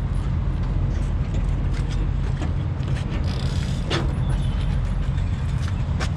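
A diesel truck engine idling steadily, with a sharp metallic click about four seconds in.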